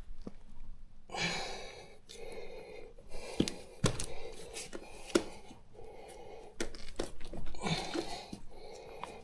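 Metal tyre levers clicking and scraping against a motorcycle wheel rim as the rubber tyre bead is levered over it by hand, with several sharp clicks and rubbing in between.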